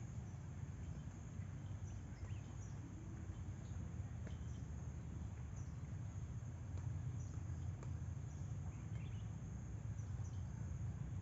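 Outdoor nature ambience: a steady low rumble with scattered faint, high-pitched chirps from small creatures.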